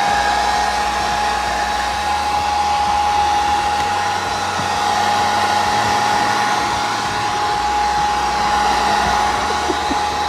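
Hair dryer running steadily: a constant whine over a rush of air.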